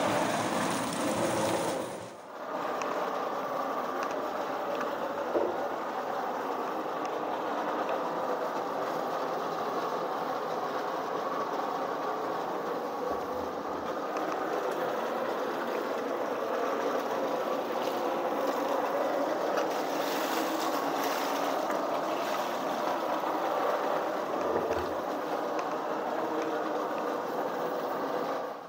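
A machine running steadily with a continuous mechanical noise, broken briefly about two seconds in.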